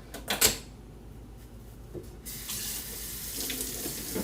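A couple of sharp knocks about half a second in. A little past two seconds in, a kitchen sink tap comes on and water runs steadily into the sink.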